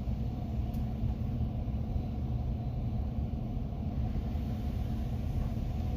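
Steady low rumble with a faint hum, heard from inside a truck's cab in an automatic car wash bay, in the pause between the spot-free rinse and the blow dryer.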